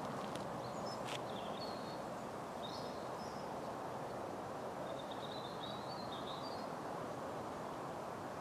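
Small birds chirping in short, scattered phrases over a steady outdoor background rumble.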